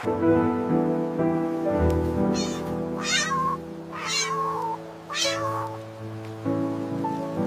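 Three cat meows in a row, about three, four and five seconds in, over background music with long held notes.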